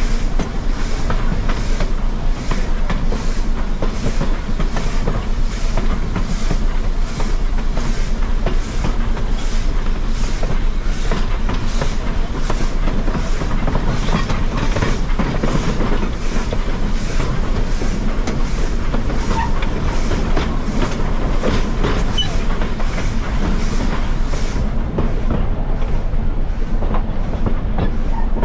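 Steam-hauled passenger train running, a steady rumble with an even rhythmic beat about one and a half times a second. The beat's upper hiss fades near the end.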